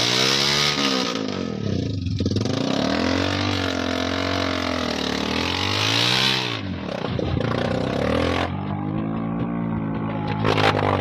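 A motor vehicle's engine revving up and falling back again and again, about every two seconds, with a loud hiss alongside that stops about six and a half seconds in.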